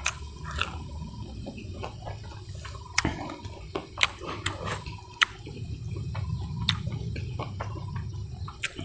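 Chewing and mouth noises of a person eating deep-fried chicken and rice: irregular wet clicks and smacks, a few every second or two, over a low steady background.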